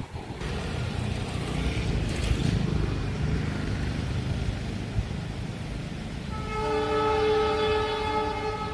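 A train's low rumble, then a locomotive horn sounding a long chord of several notes about six seconds in, held for a few seconds.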